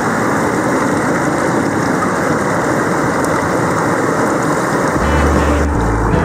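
Steady, loud rush of a waterfall's falling water. Low sustained music tones come in about five seconds in.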